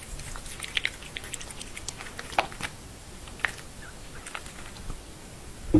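A pet chewing food: irregular small clicks and crunches, a dozen or so scattered through, with a louder knock near the end.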